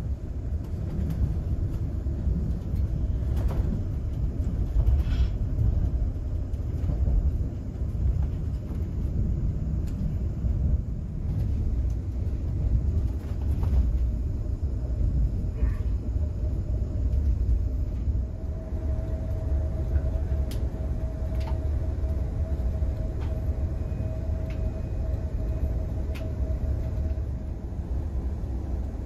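Steady low rumble inside an ÖBB Railjet passenger coach running along the track, with occasional light clicks and knocks. A faint steady whine joins in for several seconds in the second half.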